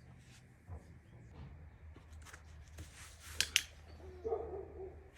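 Small handling sounds: light rustles and ticks, then two sharp clicks in quick succession about three and a half seconds in, and a short low pitched sound near the end.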